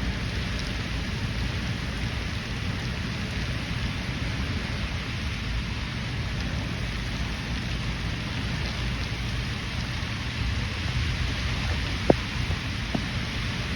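Steady heavy rain falling, with a low rumble underneath. Two or three sharp taps near the end, like big drops hitting something close by.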